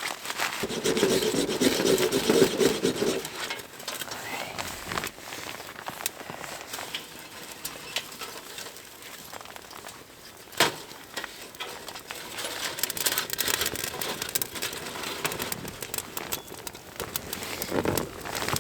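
Tinder bundle and small kindling catching fire, crackling with scattered sharp snaps, one louder snap about halfway through.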